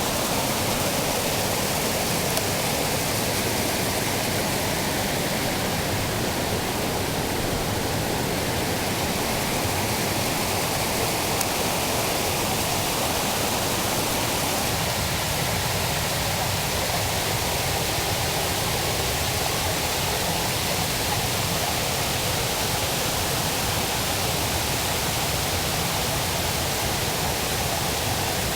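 Kuang Si waterfall: water pouring into a pool with a steady, even rush.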